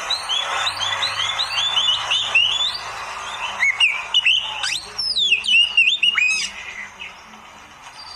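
Oriental magpie-robin (kacer) singing a rapid, varied song of whistles and chirps, with sharp downward-sweeping notes. It falls quieter for about the last second and a half.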